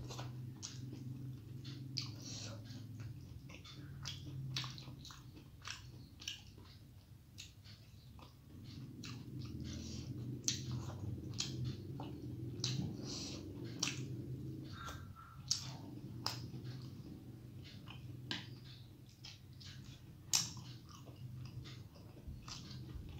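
Close-up chewing of a mouthful of rice and curry, with wet lip smacks and mouth clicks a few times a second over a low steady hum; a few smacks stand out louder.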